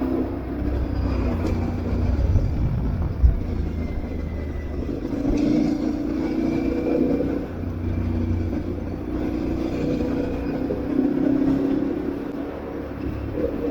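Aprilia Tuareg 660's parallel-twin engine running under way, its pitch rising and falling as the throttle opens and closes, over a steady low rumble. A single knock about three seconds in.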